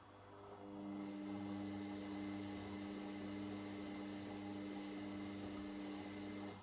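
Washing machine running with a steady electric hum that starts under a second in and cuts off suddenly near the end, over a low background hum.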